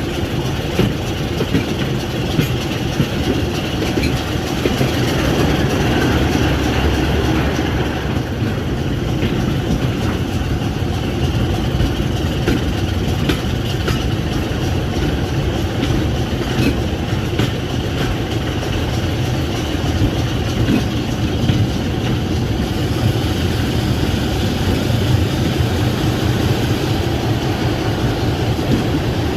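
A train running on the rails: a steady rumble with occasional faint clicks.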